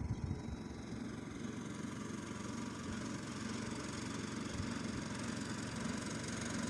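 Mini tractor engine running steadily, with a few low thumps in the first half-second.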